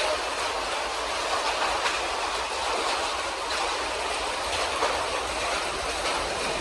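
Heavy thunderstorm rain and wind as a steady, rushing noise, with scattered faint ticks of drops or small hail striking.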